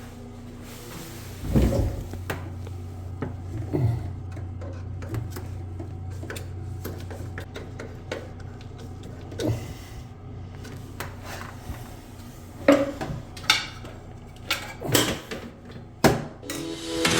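Scattered knocks and clicks of hard objects being handled, with a few louder knocks about a second and a half in and again through the last five seconds, over a steady low hum in a small, echoing room.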